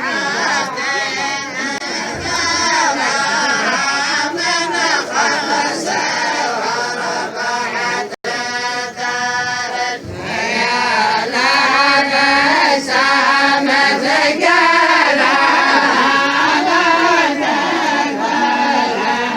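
A group of voices chanting together in a traditional southern Saudi tribal chant. The sound cuts out for an instant about eight seconds in, and the chanting comes back fuller and louder from about ten seconds.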